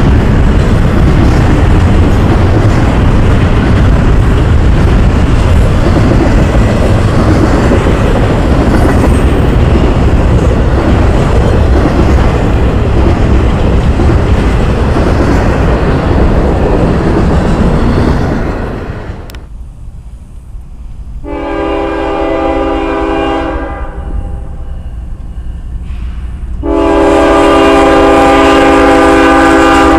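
Double-stack intermodal freight train passing close: a steady loud rumble and roar of wheels on rail from well cars and trailer flatcars. After a cut about two-thirds through, an approaching CSX diesel freight locomotive sounds its air horn twice, a blast of about two seconds and then a longer one that is still sounding at the end.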